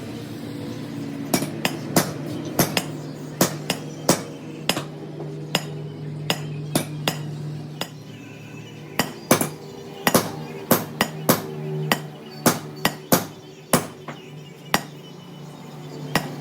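Hammer blows on metal, struck repeatedly at an uneven pace of about one to two a second, over a steady low hum.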